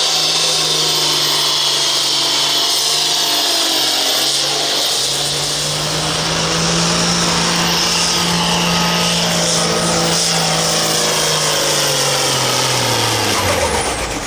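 Turbocharged diesel farm tractor engine running at full throttle under a pull, with a high turbo whistle over it. The engine note dips briefly about four seconds in, holds, then falls away near the end as the revs come down.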